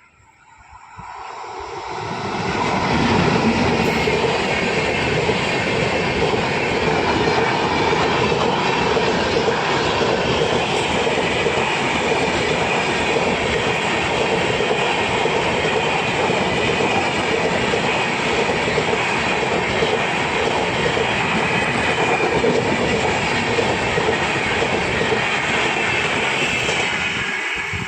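Indian Railways express train behind a WAP-7 electric locomotive passing at high speed: a loud rushing noise swells in over the first two or three seconds, holds steady for over twenty seconds, and begins to fall away near the end.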